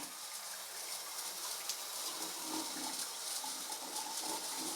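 Water spraying steadily from a shower head, an even hiss.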